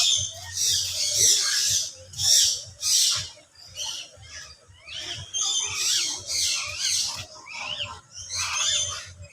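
A flock of aviary birds calling together: a dense chorus of repeated shrill calls mixed with short rising-and-falling whistles.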